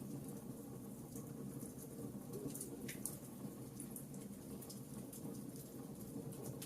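Campfire crackling: irregular sharp snaps and pops over a low, steady rumble of the burning wood.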